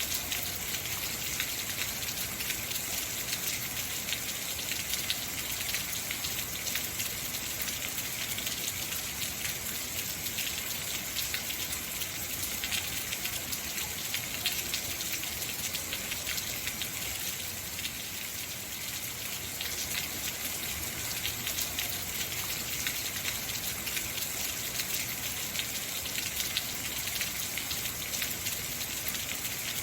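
Heavy rain falling steadily, a dense patter of drops hitting surfaces with a hissing wash on top.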